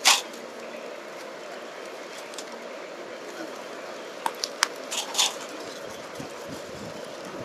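Creek water running steadily, with a sharp click at the start and a few more clicks and crackles about four to five seconds in.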